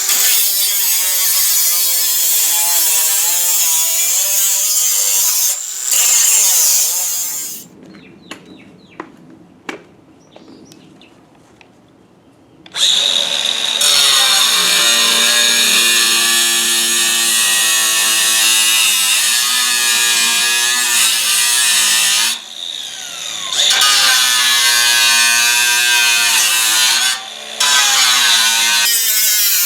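Handheld power tool cutting the sheet-metal roof skin of a 1963 Chevy truck, its high-pitched motor whine wavering as it bears on the metal. It runs for several seconds, stops for about five seconds with a few sharp clicks, then runs again with brief let-offs.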